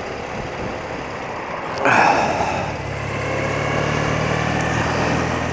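Old BMW motorcycle engine running on the road with steady wind and road noise. There is a brief louder surge about two seconds in, and a steady low engine hum from about three seconds on.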